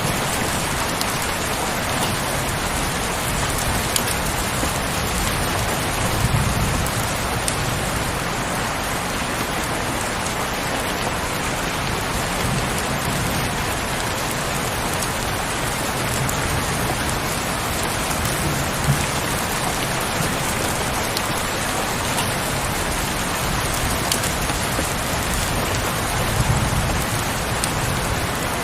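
Heavy rain falling steadily as an even hiss, with a soft low rumble swelling twice, about six seconds in and near the end.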